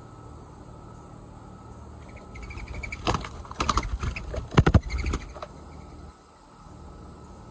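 Crickets keep up a steady high-pitched trill. From about two to five and a half seconds in, a loud flurry of knocks and scrapes runs over it.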